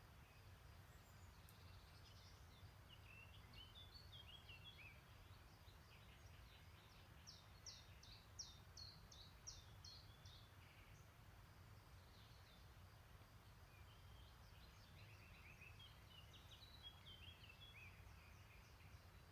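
Faint songbird song in three phrases, the middle one the loudest: a run of quick, high, falling notes about three a second. Under it runs a low, steady rumble.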